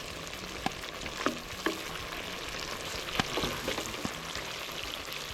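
Meat frying in oil in a pot, a steady sizzle, with several sharp clinks of a metal utensil against the pot as it is stirred.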